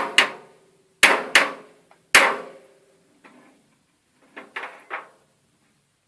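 Hammer striking a drive axle U-joint to drive out a tight, rusted bearing cap: four hard metal-on-metal blows, each ringing briefly, in the first two and a half seconds, then a few lighter taps.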